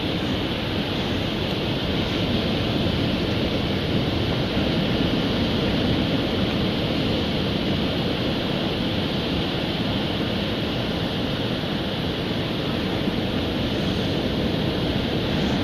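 Ocean surf breaking on a beach: a steady rush of waves that swells slightly midway.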